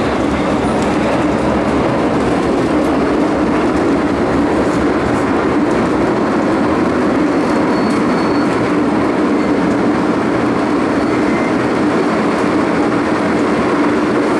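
MTR Island Line M-Train electric multiple unit running on the underground line: steady rumble of wheels on rail, with a steady hum.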